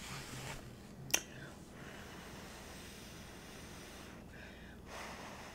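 Faint mouth sounds of a person biting a forkful of chili cheese fries and chewing close to the microphone, with one sharp click about a second in.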